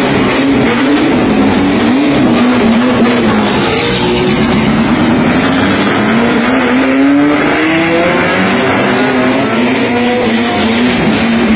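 Race car engine running hard on a circuit, its pitch wavering up and down with the revs and climbing as it accelerates around the middle.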